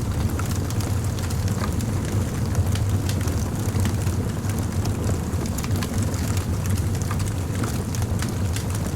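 Wood fire crackling: many small sharp pops scattered irregularly over a steady low rumble.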